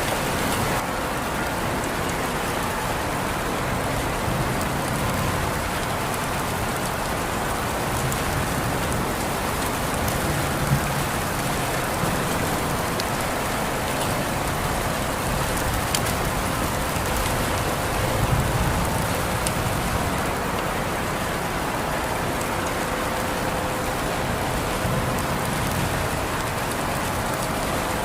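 Steady rain falling on a surface, a dense even hiss with scattered individual drops ticking.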